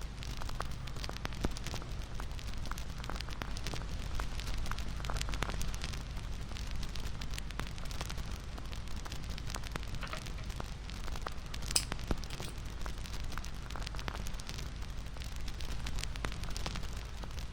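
Bonfire crackling: a steady low rumble of flames with many small irregular pops, and one sharper pop about two-thirds of the way through.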